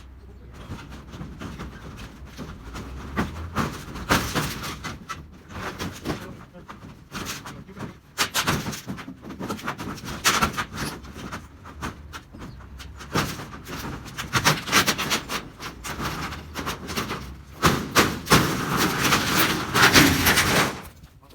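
Corrugated tin roofing sheets being torn down and handled, rattling and banging in irregular clanks and knocks. The clatter is loudest and most continuous near the end.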